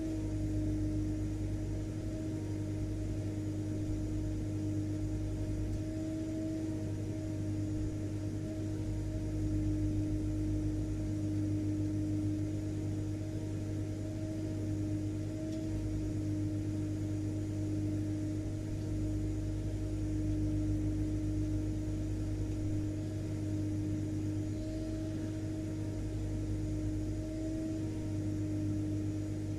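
Vacuum cleaner motor running steadily: a constant hum with a held tone over a low rumble and a faint hiss.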